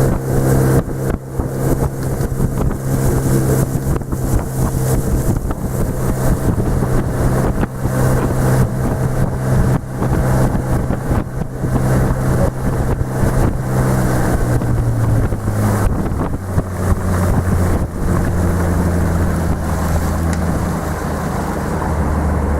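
Motorboat engine running steadily at speed, with wind buffeting the microphone; about fifteen seconds in the engine note drops lower as it throttles back.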